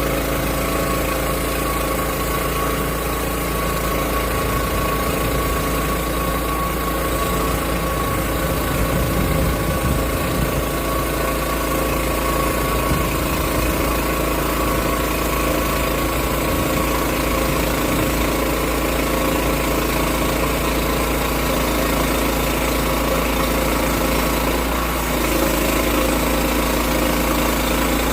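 Engine of a portable sawmill running steadily.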